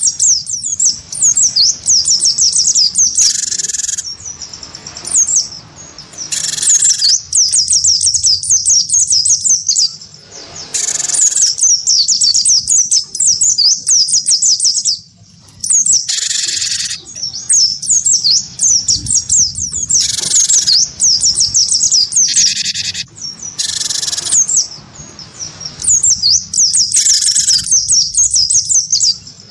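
A cinereous tit and a white-eye singing against each other. A fast, high twittering song runs almost without a break, cut every few seconds by a short, fuller call about a second long.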